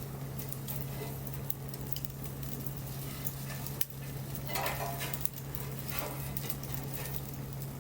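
Wood bonfire crackling, with frequent sharp pops over a steady hiss and a louder hissing flare-up about halfway through.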